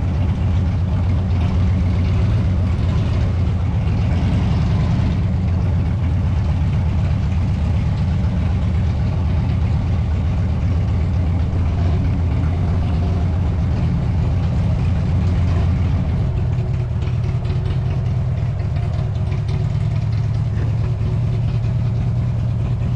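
Vehicle engine running steadily while travelling, a loud, constant low drone with no pauses or sudden changes.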